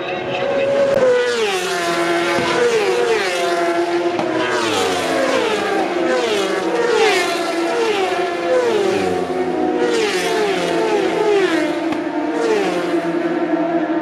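A long string of superbike racing motorcycles going past at full speed one after another, each engine note falling in pitch as it passes, over a steady drone.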